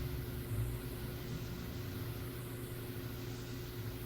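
Steady hiss of an old 1950s tape recording, with a faint steady hum and a low rumble that swells and fades underneath.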